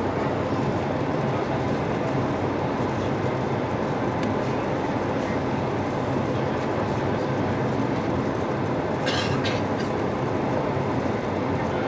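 Steady rumbling cabin noise inside an Airbus A220-300 airliner, with a brief hiss about nine seconds in.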